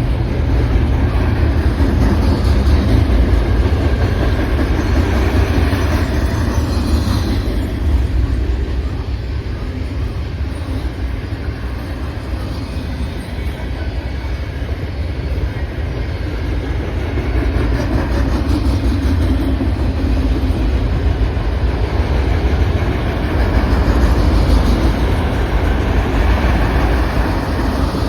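CN freight train rolling past, a continuous heavy rumble of steel wheels on rail that swells and eases without stopping.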